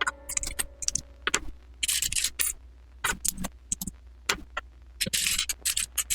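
LEGO plastic pieces clicking and rattling as they are handled and snapped together, with several short scraping rustles of hands sorting through loose bricks.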